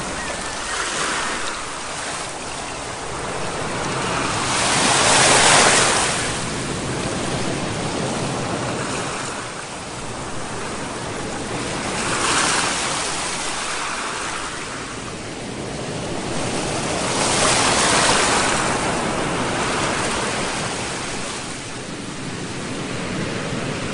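Sea waves breaking, a steady rush of surf that swells up about every six seconds, the loudest surge about five seconds in.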